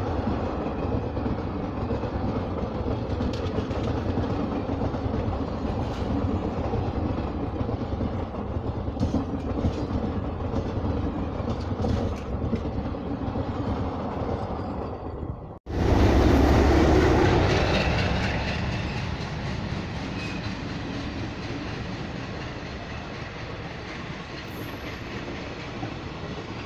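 Indian Railways passenger coaches rolling past close by, wheels clicking over rail joints under a steady heavy rumble. The sound drops out for an instant about sixteen seconds in, comes back louder, then slowly fades.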